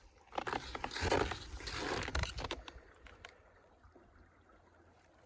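Cross-country skis and poles scraping and swishing over snow for about three seconds, with a few sharp clicks near the end, then fading out.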